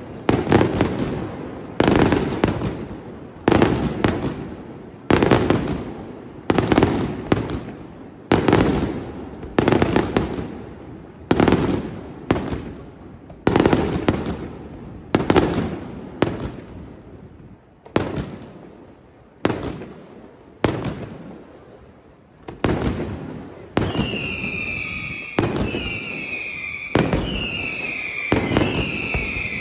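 Aerial fireworks bursting in a steady series, about one sharp bang every second and a half, each trailing off in a rolling echo. From near the end, falling whistles sound along with the bursts.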